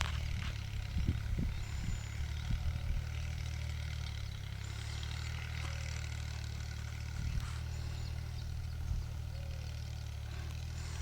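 Mini tractor engine running steadily at idle, a low even hum.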